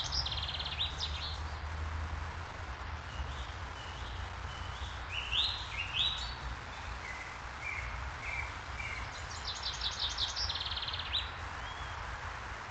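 Small woodland birds singing: a fast, high run of repeated notes at the start, returning about ten seconds in, with scattered short chirps between. Under it all is a steady background hiss and low rumble.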